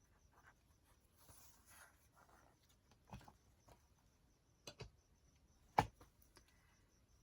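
Quiet handling of a handmade journal and its tying materials: faint rustling with a few light taps, the sharpest about six seconds in.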